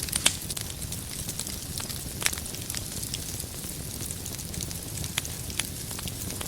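Wood fire burning with a steady low rumble and hiss, and irregular sharp crackles and pops of burning firewood, a louder pop near the start and another about two seconds in.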